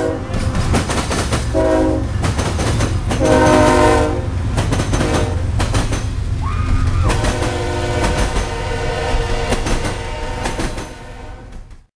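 Diesel freight train passing close by. Its locomotive air horn sounds in three blasts in the first four seconds over the deep rumble of the engine and wheels. Then, as the freight cars roll through the sharp curve, their wheels screech in steady high tones until the sound cuts off just before the end.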